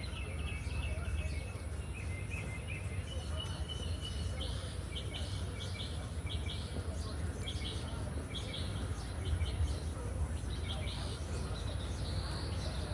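Small birds chirping, short high calls repeating about twice a second, over a steady low rumble.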